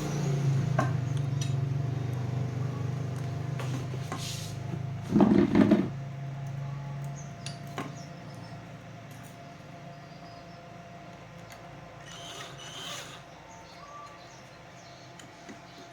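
Hand tools and small parts being handled during bench repair work: scattered taps and clicks, with one louder clatter about five seconds in. A low steady hum fades out after about six seconds.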